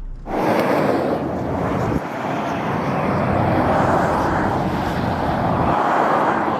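Loud rushing of air that starts abruptly just after the beginning, then swells and eases in slow waves.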